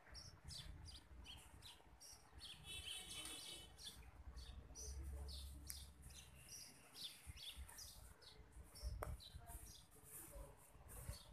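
Small birds chirping faintly, many short high chirps scattered throughout.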